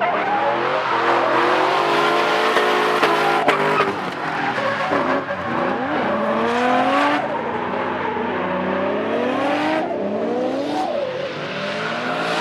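Two drift cars in a tandem battle, engines revving up and down at high rpm while their tyres squeal and skid.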